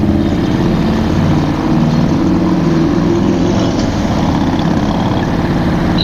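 Harley-Davidson V-twin motorcycle engine running steadily under the rider, with a deep, even engine note.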